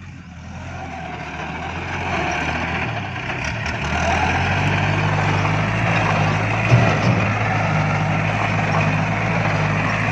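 Farm tractor's diesel engine running, growing louder over the first few seconds and then holding steady, with a brief knock about seven seconds in.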